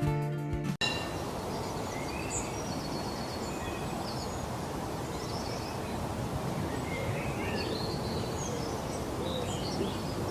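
Outdoor ambience: a steady background hiss with scattered short, high-pitched bird chirps and trills. A brief bit of music cuts off suddenly under a second in.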